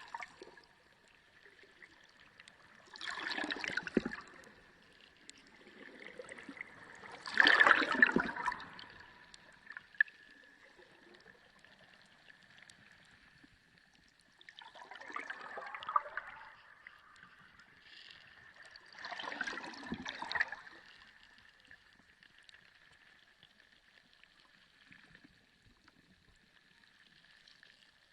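Ocean water heard underwater, surging in four swells that rise and fade, the loudest about eight seconds in, over a faint steady high tone.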